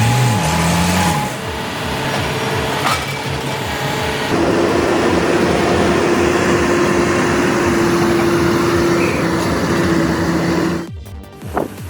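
Wheel loader's diesel engine and hydraulics running while handling logs. A steady whine joins about four seconds in, and the sound cuts off abruptly near the end.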